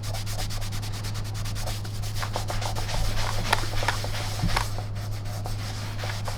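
A rag damp with denatured alcohol rubbing quickly back and forth on the vacuum's painted body, scrubbing off scuff marks in rapid, even strokes. A steady low hum runs underneath.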